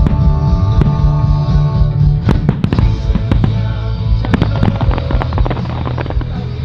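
Fireworks exploding in rapid clusters of bangs and crackles, over loud music with long held notes and a steady bass.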